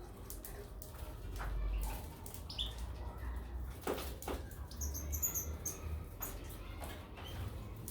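Small cage birds, goldfinches and canaries, giving a few short high chirps, with wing flutters and scattered clicks. A low rumble runs underneath.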